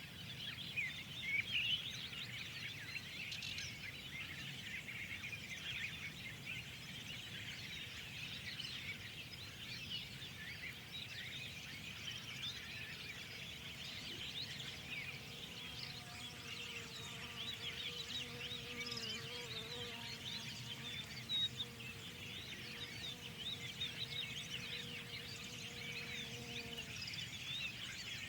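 Many small songbirds chirping and twittering at once in a dense, continuous chorus over a low rumble. About halfway through, a steady drone of several even tones joins in and dies away near the end.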